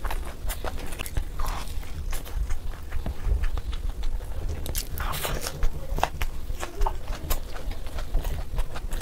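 Close-miked chewing of puri and curried boiled egg: many sharp mouth clicks and smacks, with a louder bite about five seconds in.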